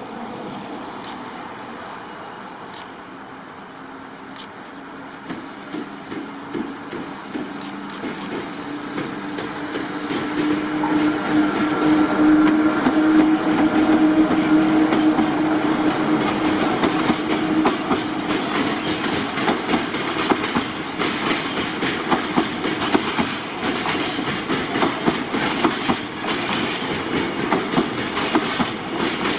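Departing electric freight locomotive and its container wagons passing close by. A steady hum builds as the locomotive draws near and goes past around the middle, then the wagons follow with a rhythmic clickety-clack of wheels over rail joints.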